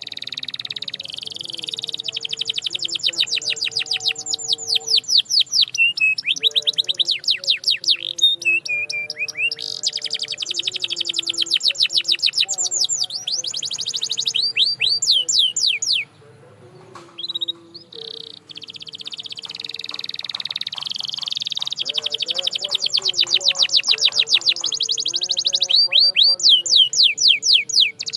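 Canary singing in long, fast trills of rapidly repeated high notes, with a short pause about two-thirds of the way through.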